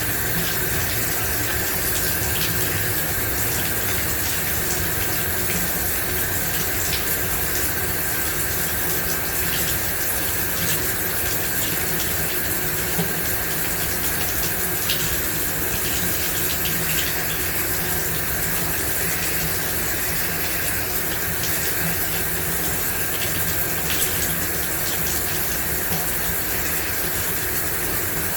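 A shower running steadily: water spraying and splashing with a constant rushing hiss and a few faint drip-like ticks.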